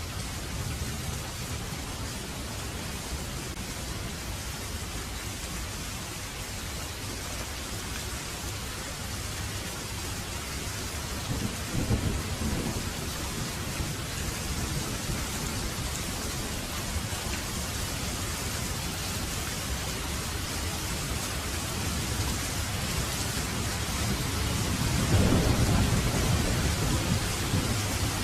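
Heavy rain falling steadily with thunder rumbling twice: a brief low rumble about twelve seconds in and a longer, louder one near the end.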